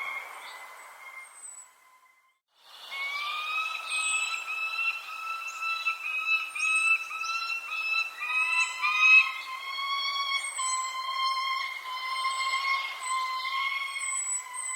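Birds calling: many short, high chirps that drop in pitch, over long, held whistle-like tones that waver slightly. The sound cuts out briefly about two seconds in, then comes back.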